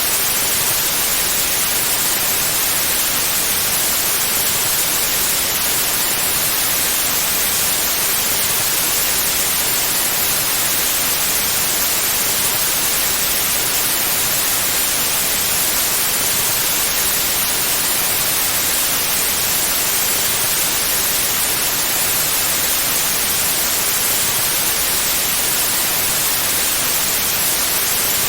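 Steady, unchanging white noise: an even hiss, strongest in the highs, with no other sound.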